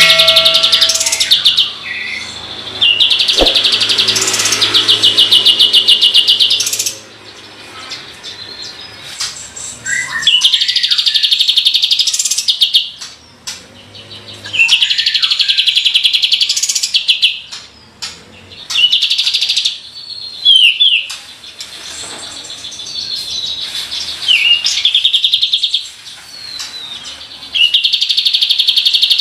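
Kapas tembak (a bulbul) singing its song of rapid rattling 'tembakan' trills, about seven of them, each one to four seconds long, with short softer calls in between.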